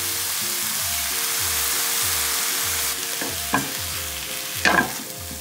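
Cauliflower rice with cilantro and lime sizzling in a hot nonstick pan as it is stirred with a silicone spatula. The sizzle eases a little past halfway, and the spatula scrapes the pan twice, more loudly, near the end.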